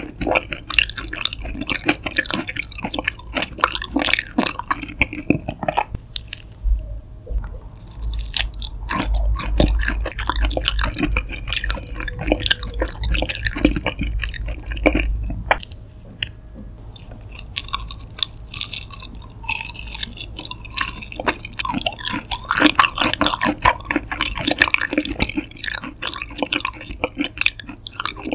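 Raw shrimp being chewed close to the microphone: a dense run of sharp, wet mouth clicks, quieter for a few seconds past the middle.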